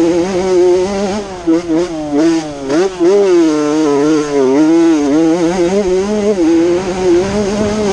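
Honda CR80 two-stroke motocross bike engine being ridden hard, its pitch rising and falling again and again with the throttle. It drops off briefly about two to three seconds in, then climbs back.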